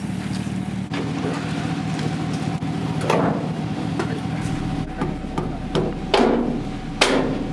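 A vehicle engine idles steadily under a few sharp metal clanks that ring briefly: one about three seconds in and two louder ones near the end, typical of metal trailer hardware being handled while unloading a vehicle.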